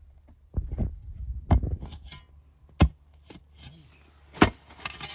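A digging tool striking and chopping into frozen ground: a duller hit and scrape, then three sharp strikes a second or more apart. The ground is still frozen, so the blade chops instead of sinking in.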